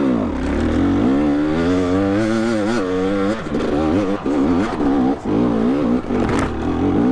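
Two-stroke dirt bike engine revved hard and unevenly, its pitch swinging up and down over and over with brief drops, as the bike labours on a steep hill climb.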